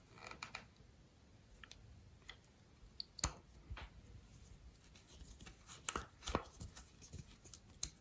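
Faint, irregular clicks and light taps of a screwdriver and small plastic and metal parts being handled as the plastic top cap of a Shimano 105 STI shifter is refitted and its small screw tightened. The two sharpest clicks come about three seconds in and about six and a half seconds in.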